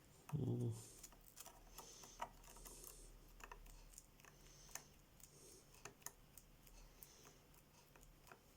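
Faint, scattered small clicks and light knocks of gearbox parts being handled and turned by hand, with a brief low hum about half a second in.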